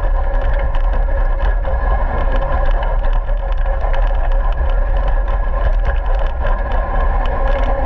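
Radio-controlled car running at a steady speed: a constant motor whine over a heavy low rumble, with frequent small clicks and rattles.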